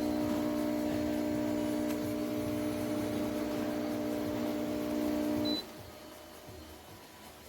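Espresso machine pump humming steadily, then cutting off abruptly about five and a half seconds in, with a brief high beep just before it stops.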